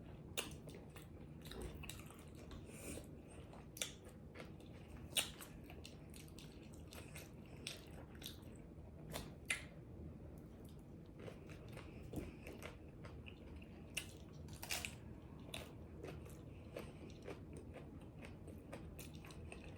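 Faint close-up chewing of a pizza taco, with scattered short crunches and mouth clicks at irregular intervals.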